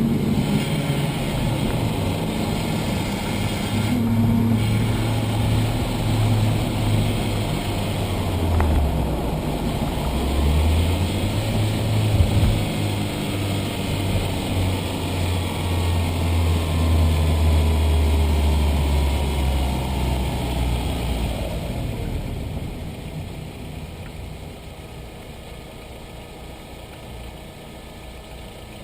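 Audi A4 B5's 1.8-litre turbocharged four-cylinder engine running, its low note dropping about nine seconds in, climbing back a second or two later, then fading away after about twenty seconds. A faint whine falls in pitch through the middle stretch.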